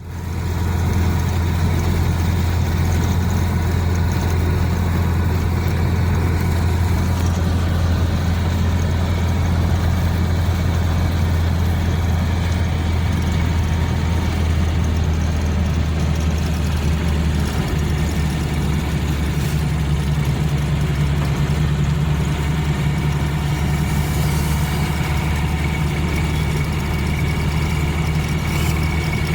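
A steady, unbroken low engine hum, like a running vehicle.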